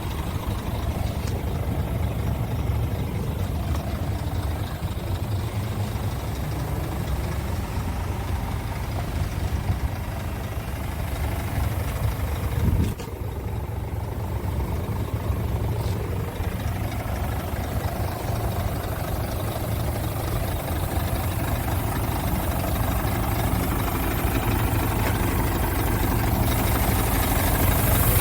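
Scania P truck's diesel engine idling steadily, with one brief surge in level about halfway through.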